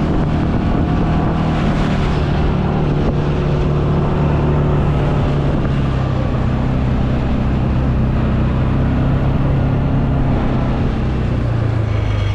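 Vehicle engine running steadily while driving, heard from inside the cab. The engine note drops slightly about eleven seconds in.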